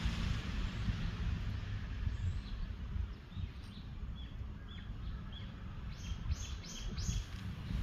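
Small wild birds chirping in short repeated notes, with a quick run of four high notes about six seconds in, over a steady low wind rumble on the microphone.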